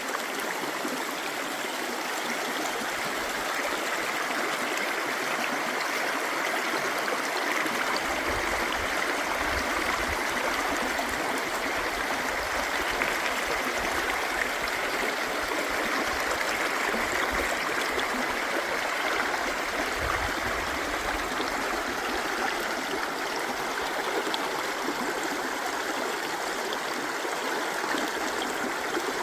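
River water rushing steadily in a continuous, even flow. A few low rumbles come and go about a third of the way in and again around two-thirds through.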